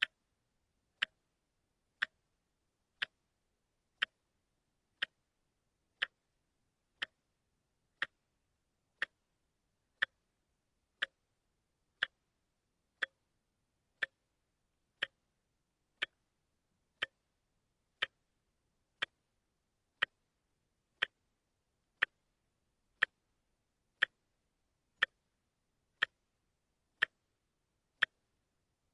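Wristwatch ticking steadily, one sharp, evenly spaced tick a second, with silence between the ticks.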